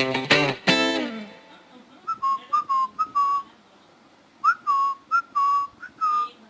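A few plucked guitar notes of background music die away in the first second. Then a pet parrot whistles a phrase of about nine short notes, each sliding sharply up and then levelling off.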